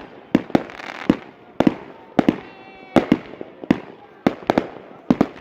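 New Year fireworks going off in a rapid, irregular series of sharp bangs, roughly a dozen in a few seconds, each trailing off in an echoing rumble.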